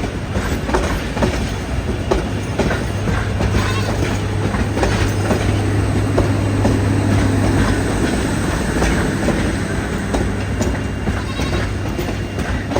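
A train running on the rails, its wheels clicking over the rail joints, with a steady low hum that swells through the middle and eases off again.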